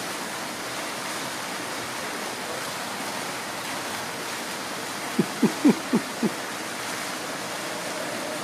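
Steady rushing background noise with a quick run of five short, low calls, each falling in pitch, about five seconds in.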